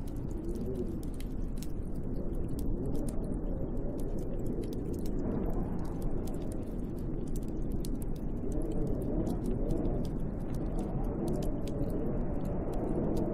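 Snowstorm wind blowing outside a cabin window, a steady rush with a low moaning pitch that rises and falls every second or two, and faint scattered ticks on top.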